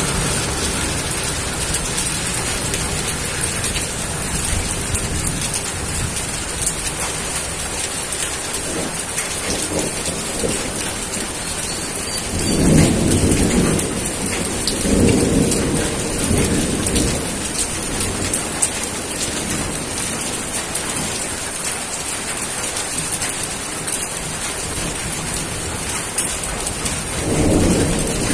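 Steady rain falling in an even hiss, with low rolls of thunder swelling about halfway through and again near the end.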